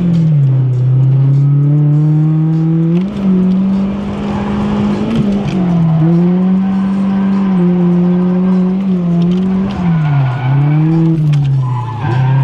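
Drift car's engine running at high revs through a drift run, its pitch climbing, holding high and dipping again several times as the throttle is worked, with a brief dip about ten seconds in.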